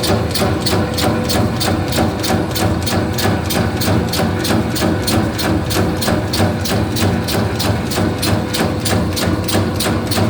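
Meatball-forming machine running steadily: a motor hum with a rapid, even knocking about five times a second as its mechanism forms the balls.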